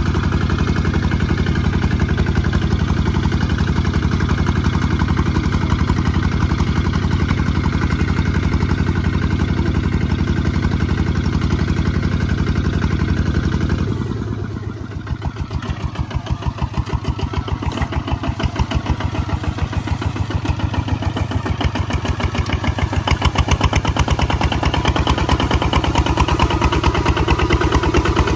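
Kubota ZT 155 DI tractor's single-cylinder diesel engine running steadily during plowing; about halfway through its note drops and the level dips, then it builds back up over several seconds.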